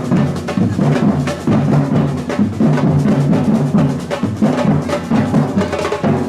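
Samba batucada drumming: bass drums, snares and other hand percussion playing a fast, steady groove together.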